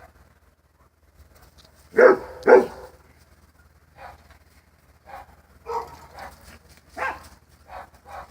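Dog barking, afraid of a remote-control car: two loud barks about two seconds in, then a run of shorter, quieter barks.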